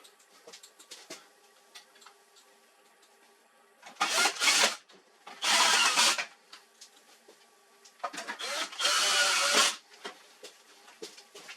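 HP LaserJet 4345 laser printer running, with three loud mechanical bursts of paper feed and drive noise, the last the longest, over a faint steady hum.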